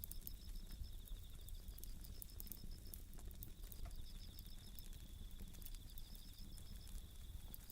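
Japanese bell crickets (suzumushi) chirping in repeated high pulsed trills, at least two insects overlapping, over the scattered small snaps and pops of a crackling campfire.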